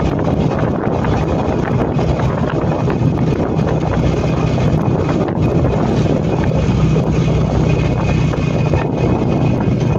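Motorcycle running steadily while being ridden, with wind blowing across the microphone.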